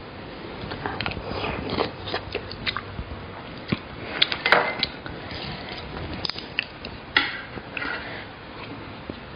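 Close-miked mealtime sounds: biting and chewing, with irregular crackles and scattered sharp clicks.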